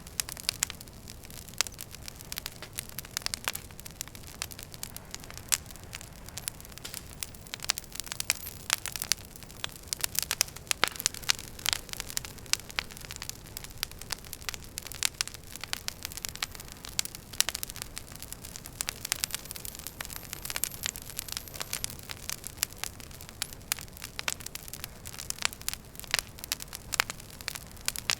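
Wood fire crackling in a fireplace: many sharp, irregular pops and snaps, several a second, over a steady low rumble of the flames.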